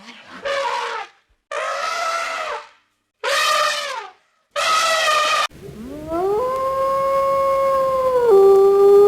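A canine howling: four short wavering howls of about a second each, then one long howl that rises, holds a steady pitch and drops a little near the end.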